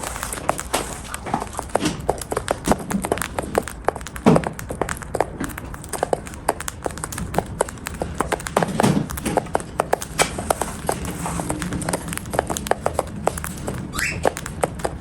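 Cockatiel eating: rapid, irregular clicks and crunches of its beak working the food, several a second. A brief chirp near the end.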